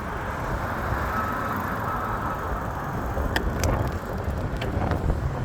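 Steady road and traffic noise from travelling along a city street, with a couple of short clicks a little past halfway.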